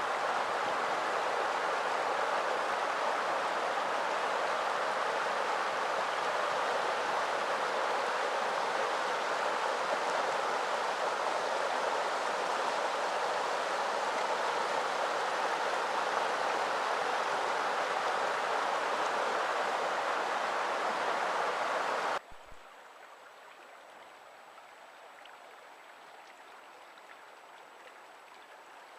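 Rushing water of a fast mountain trout stream, a steady rush. About three-quarters of the way through it cuts off abruptly, leaving a much fainter water sound.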